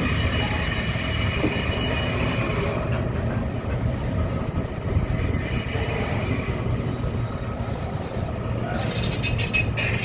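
A train running past on the line: a steady rumble of wheels on rail, with high-pitched metallic squealing from the wheels that fades about two-thirds of the way through and returns near the end.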